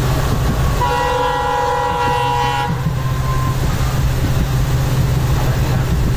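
Train horn sounding one held chord for about two seconds, starting about a second in, over the steady low rumble of a moving train.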